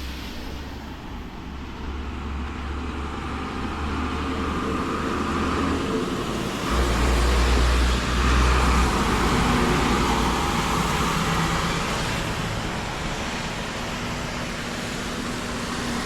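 Road traffic passing close by. A vehicle's engine and tyres grow louder to a peak about seven to nine seconds in, then fade as it goes by.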